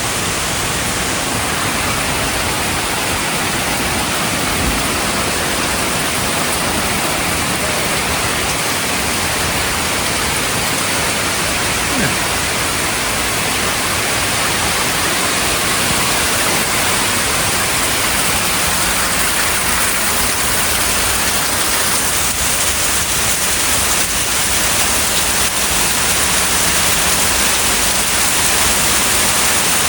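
Torrential thunderstorm rain pouring down in a dense, steady hiss, growing slightly louder in the second half.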